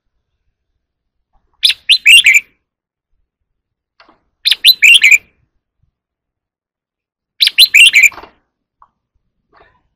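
Red-whiskered bulbul singing: three short phrases of several quick whistled notes, about three seconds apart.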